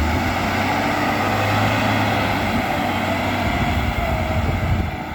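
Heavy diesel engine of road-repair machinery running steadily, with a low drone under a broad engine noise.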